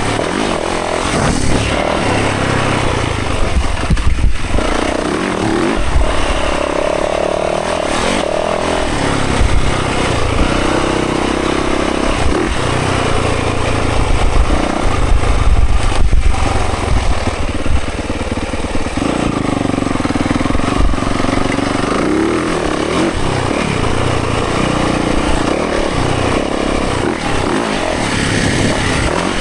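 Dirt bike engine being ridden, revving up and down with its pitch rising and falling as it changes speed, with a few sharp thumps.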